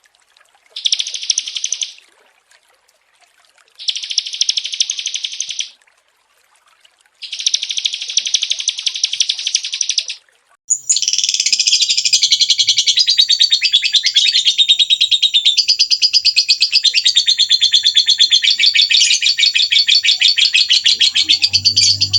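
A small songbird sings rapid, high trills. There are three short bursts with pauses between them, then an unbroken run of fast trilling and chattering from about halfway through.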